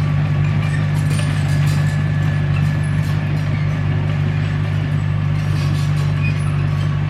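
Komatsu D21P bulldozer's diesel engine running at a steady, even pitch under work, with faint clinks over the top.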